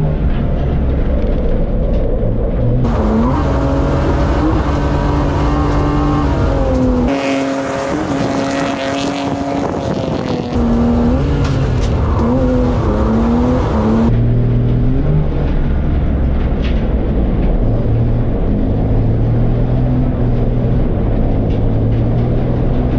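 BMW E36 328i's M52 straight-six engine revving up and down repeatedly through a drift run, with tyres squealing and skidding.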